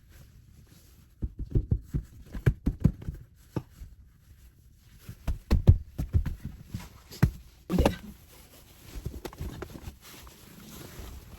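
Irregular run of short knocks and thumps from things being handled and set down, with one louder thump near eight seconds, then softer rustling.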